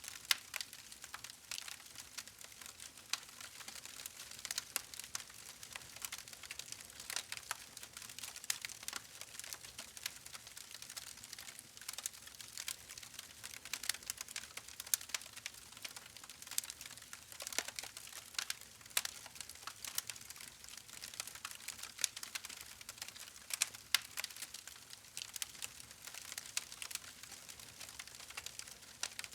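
Campfire crackling: wood burning with irregular small pops and snaps over a faint hiss.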